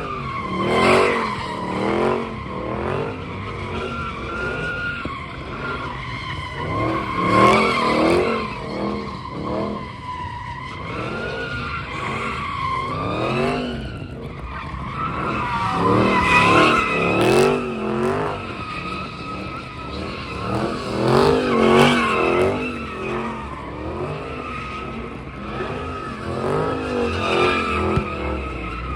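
Cars drifting, tyres squealing in long, wavering screeches while the engines rev up and down again and again, with the loudest surges about 1, 7, 16 and 21 seconds in.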